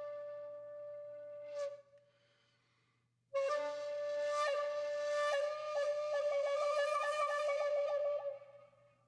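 Solo flute music. A long held note ends with a breathy flourish, and after a short pause a new note starts and is held, breaking into a rapid fluttering trill before fading out.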